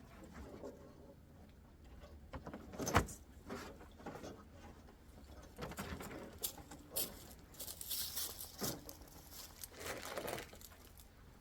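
A bungee cargo net and its quick-connect hooks being handled and clipped onto a pickup bed: scattered clicks, small rattles and rustling, with one sharper knock about three seconds in.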